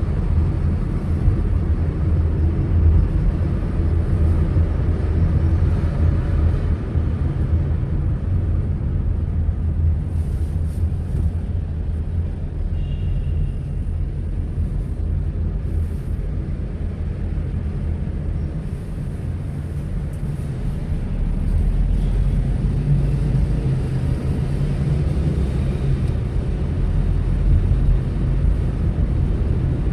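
Steady low rumble of a car driving: engine and road noise, easing off slightly partway through. A short faint high tone sounds about thirteen seconds in.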